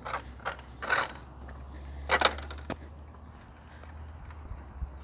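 A few short clicks and rattles of handling, the loudest a little after two seconds in, over a steady low hum.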